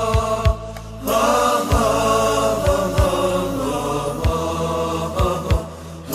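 A group of voices chanting a song in unison, with short low thumps keeping the beat underneath. The phrases break briefly about a second in and again near the end.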